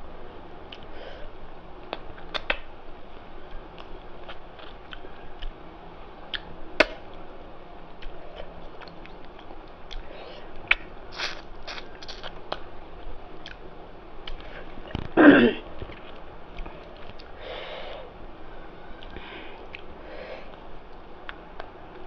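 A person eating rice with spicy mutton curry: quiet chewing and scattered small mouth and eating clicks, with one louder short noise about fifteen seconds in.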